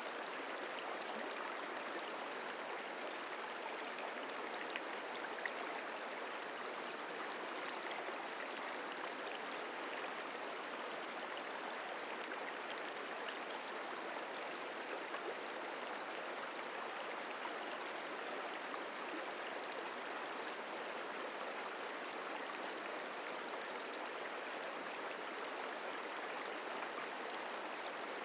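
Merced River flowing over rocks: a steady, even rush of water.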